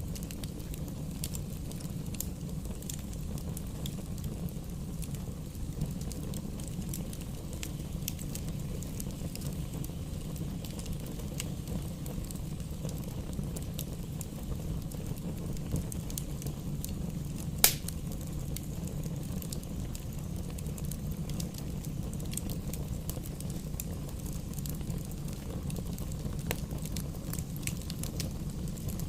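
Fire burning in a fireplace: a steady low rumble of flames with scattered small crackles and one loud pop a little past halfway.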